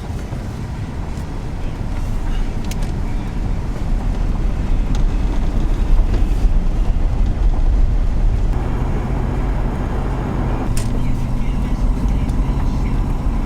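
Motor vehicle running while being ridden in: a steady low engine and road rumble, the engine note settling into a steadier hum about two-thirds of the way through.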